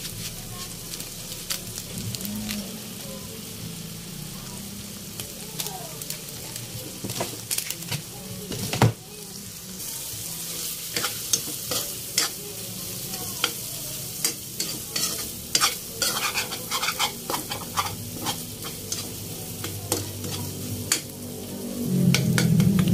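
Corned beef with diced potatoes and onions sizzling in a wok as a metal spatula stirs and scrapes it. Frequent clicks of the spatula against the pan, with one sharper knock about nine seconds in.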